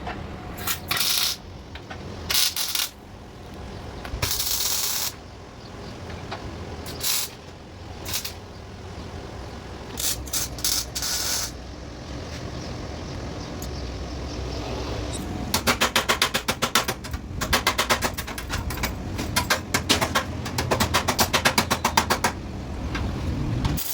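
CO2 (MIG) welder striking short tack welds: a handful of brief bursts of crackling hiss. About two thirds of the way in, a longer stretch of rapid, sputtering crackle follows.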